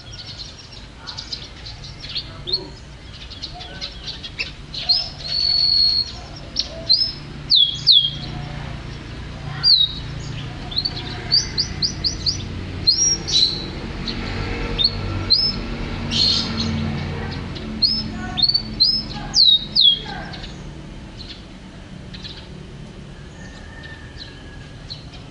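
A songbird singing a rapid, varied string of short, sharp, high whistled notes, many of them sweeping up or down. The singing stops about 20 seconds in, over a low steady hum.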